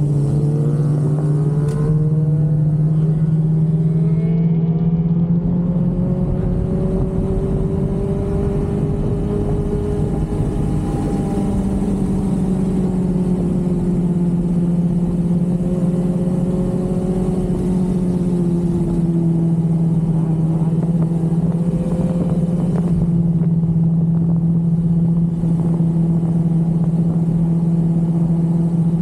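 Sportbike engine under way, revving up hard in the first couple of seconds, then holding a steady high drone while cruising, with a small rise in pitch about 11 seconds in.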